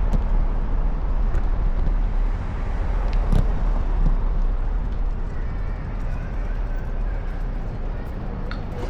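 Steady rumble of wind on the microphone with road and traffic noise while riding a bicycle.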